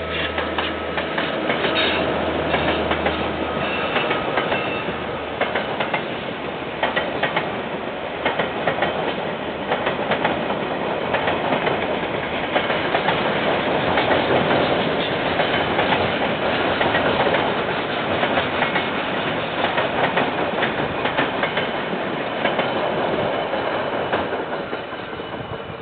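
Container freight train passing, heard through a security camera's microphone. A low locomotive engine hum carries the first few seconds, then the steady rumble and rapid clickety-clack of wagon wheels over the rail joints, fading near the end.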